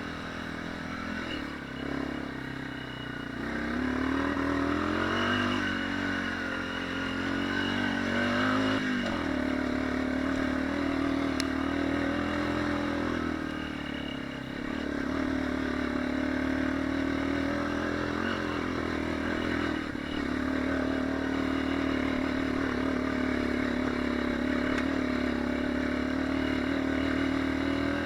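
Dirt bike engine running while being ridden. The revs rise and fall through the first several seconds, drop off sharply about nine seconds in, then hold fairly steady.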